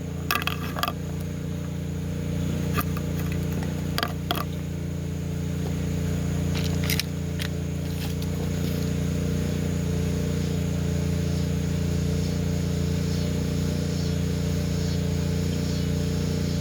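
An engine running steadily with a low, even hum, with a few short clicks and knocks of handling in the first seven seconds or so.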